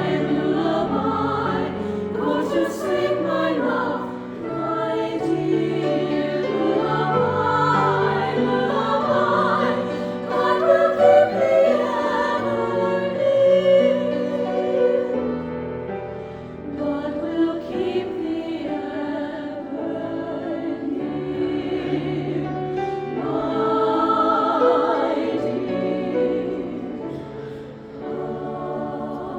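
A choir singing in parts, with sustained notes moving from chord to chord and a phrase that eases off near the end.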